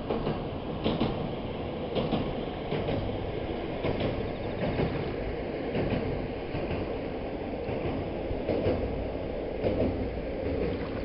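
Single diesel railcar running across a long steel girder railway bridge over a wide river, heard from the riverbank as a steady rumble with irregular sharp clacks from the wheels on the bridge.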